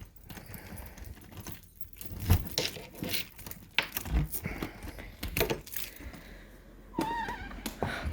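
A ring of keys jangling, with irregular clinks and clicks as they are handled to unlock a door. A short wavering squeak comes near the end.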